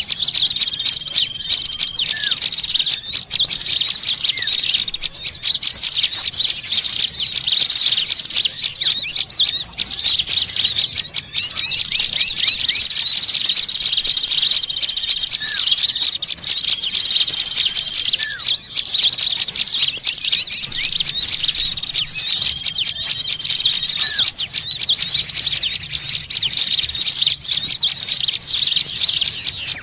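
A dense, noisy chorus of many small songbirds chirping and twittering rapidly and without pause, with a few short steady whistles and downward-slurred notes standing out now and then. It is a bird-catcher's lure recording ('pikat') meant to draw small birds in.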